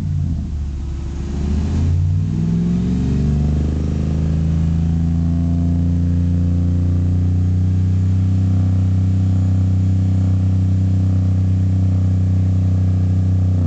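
Ram's engine through a Magnaflow dual exhaust, revved up over about three seconds and then held steady at high revs, about 3,800 RPM.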